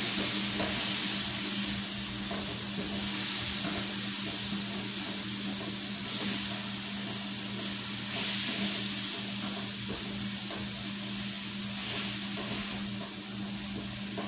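Tomato-and-onion sauce sizzling in a hot pan with coconut milk just added: a steady high hiss that eases slightly toward the end, with a few faint ticks. A steady low hum runs underneath.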